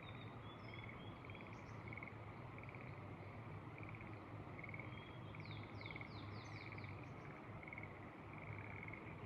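A chorus of frogs in rice paddies, short trilled calls repeating and overlapping one after another at an even pitch. A bird chirps a few times early on and gives a quick run of falling notes about halfway through, over a faint steady hum and hiss.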